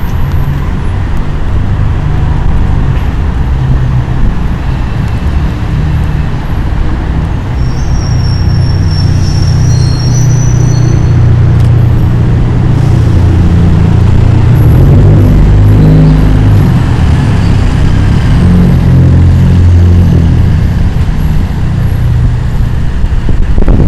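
Wind buffeting the microphone with a heavy, uneven low rumble. Faint high bird chirps come through about a third of the way in.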